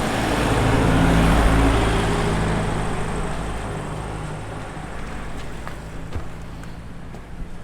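A car driving past with a steady engine note and tyre noise. It is loudest about a second in, then fades away gradually.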